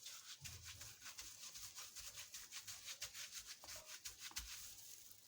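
Faint, quick rubbing and scraping of hands working over marinated lamb pieces in a bowl, many short strokes a second with soft low thuds underneath.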